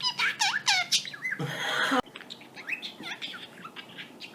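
Pet budgerigar chirping and warbling in quick sweeping chirps, loudest for the first two seconds with a harsh raspy stretch that cuts off sharply, then softer chatter.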